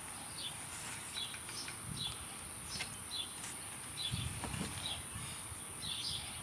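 A small bird chirping over and over in short, separate notes, about two a second, over a steady high-pitched hiss.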